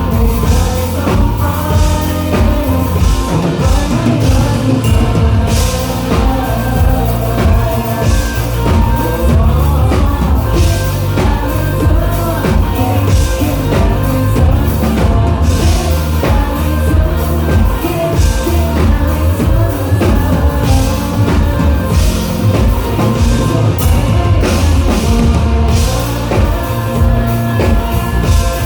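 Rock band playing live, loud, with a singer, electric guitars and drum kit.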